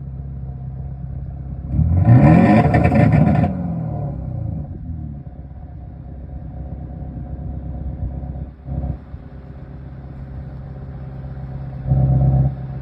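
BMW 420d's four-cylinder diesel, its sound shaped by an EngineVox active exhaust system, idling and being revved: a loud rev about two seconds in that climbs and falls back, a short blip near nine seconds, and a brief louder burst near the end.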